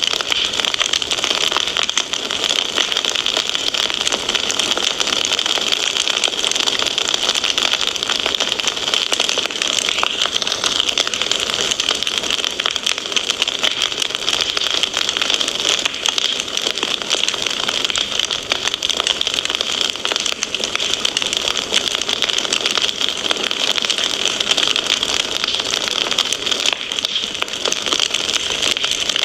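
Fireplace fire crackling: a steady, dense stream of small pops over a constant hiss.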